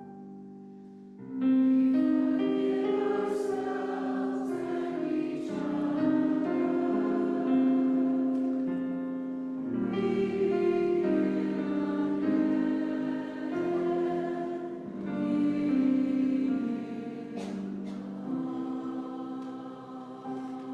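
A group of voices singing a slow hymn together, coming in about a second in with sustained notes in phrases.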